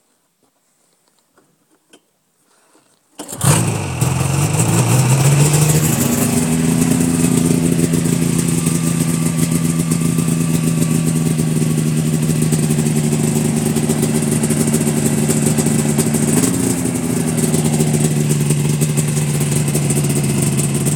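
Yamaha Phazer 500 snowmobile's two-stroke twin engine cold-starting in sub-zero cold. After a few near-silent seconds it fires and catches about three seconds in, its pitch climbs briefly, and then it settles into a steady idle. There is a short rise in revs a few seconds before the end.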